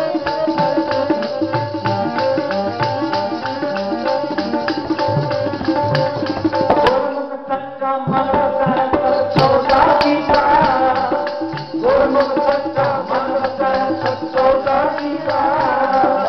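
Sikh kirtan music: a harmonium holding steady notes over quick tabla strokes and jingling percussion, with the playing thinning out briefly about halfway through. A singing voice comes in at times over the instruments.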